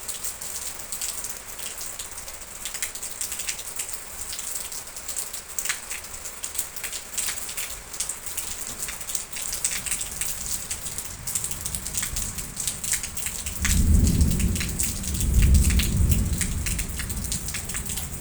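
Steady rain falling, with many small drops pattering on a surface. A low roll of thunder builds from about ten seconds in and swells loudest near the end.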